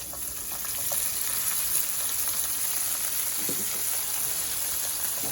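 Chicken and beans sizzling as they fry in butter in a pan. The sizzle is steady and grows louder about a second in.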